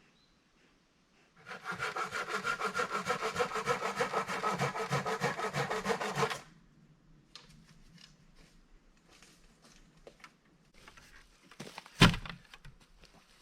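Hand saw cutting through wood in a quick, even run of strokes lasting about five seconds, then stopping. After it come light clicks and handling noises, and a single sharp knock near the end.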